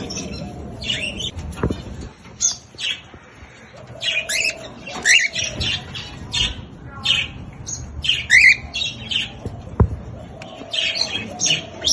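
Cockatiel calls: a steady string of short, shrill chirps and squawks, some sweeping quickly in pitch.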